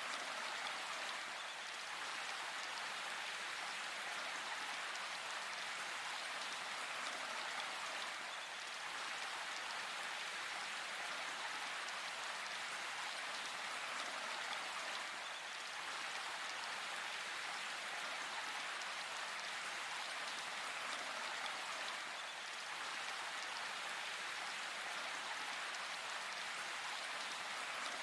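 Steady rain falling in a forest: an even hiss of countless drops on leaves and ground, holding level throughout, with no thunder.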